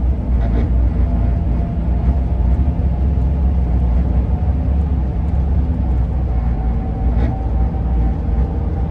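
Ford E-350 van on the move, heard from inside the cabin: a steady low road and engine rumble with a thin steady howl from the roof rack, which grows clearer in the second half.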